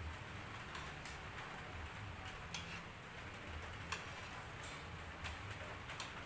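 Light drizzle falling steadily, with about half a dozen sharp ticks scattered irregularly through it.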